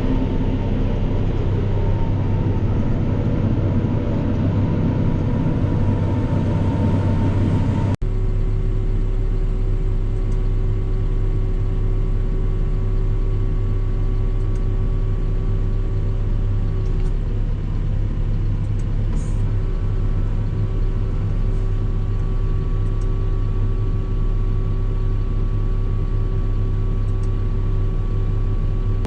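Forage harvester (silage chopper) running steadily: a heavy diesel engine drone with steady whining tones above it. The sound breaks off sharply about eight seconds in and comes straight back at the same level.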